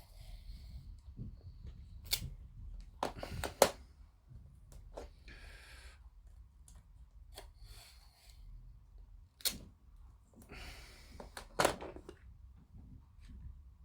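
Masking tape being pulled off and handled in short rasping strips, with scattered sharp clicks and taps from handling the plastic model parts on the bench.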